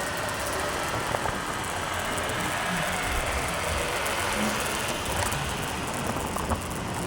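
Steady wind and road rush from riding a motorbike, with a few faint clicks.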